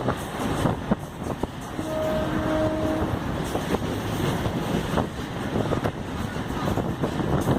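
Local passenger train running, heard from on board: a steady rail rumble with frequent knocks from the wheels on the track and wind on the microphone. A short tone sounds twice about two seconds in.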